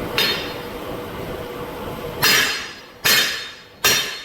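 Heavy hammer striking a steel split-rim truck wheel: four sharp, ringing metal blows, a lighter one at the start and then three hard ones about a second apart.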